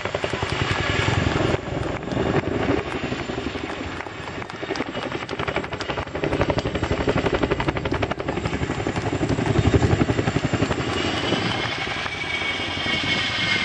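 RAF Boeing Chinook tandem-rotor helicopter, its rotors beating in a fast, steady chop. A high whine comes up over the chop near the end.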